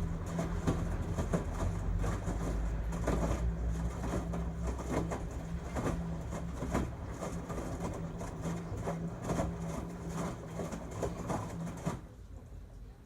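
LG Tromm WD-CR101C front-loading drum washing machine tumbling a load on a quick wash: a steady low motor hum with irregular knocks and swishes from the laundry and water in the drum. It stops abruptly near the end.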